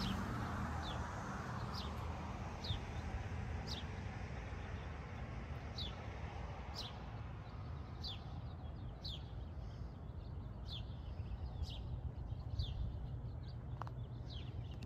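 Birds chirping: a long series of short, high chirps, each dropping in pitch, about one or two a second, over a faint low outdoor rumble.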